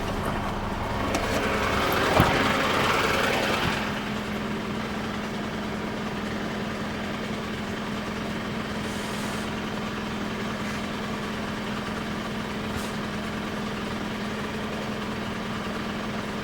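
Truck engine idling steadily with a low hum. About a second in, a rushing hiss lasts for roughly three seconds, with a click in the middle of it.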